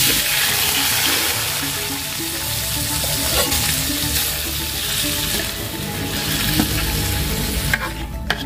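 Chopped taro stalks hitting hot oil in a metal wok: a loud sizzle bursts out at once, with the clink and scrape of a metal spatula stirring them. The sizzle thins out near the end.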